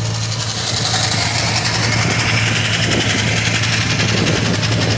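A fishing boat's engine running steadily with a low, even hum, under a rushing hiss that slowly drops in pitch.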